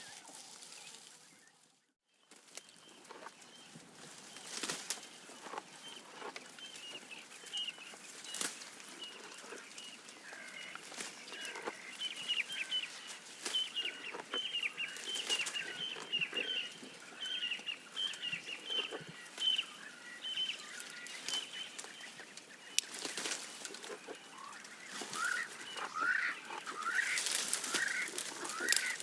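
Giraffe feeding, with irregular crunching and crackling from leaves and twigs, while birds call around it. A fast run of short repeated chirps fills the middle, and louder rising calls come near the end. The sound drops out briefly about two seconds in.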